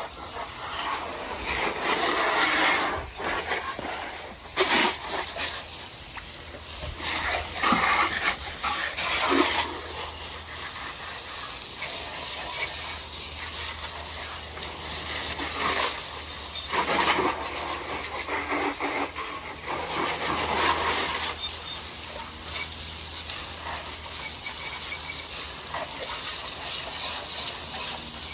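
Water spraying as a motorcycle is rinsed off after its cleaner has soaked: a continuous hiss that swells and fades as the spray moves over the bike.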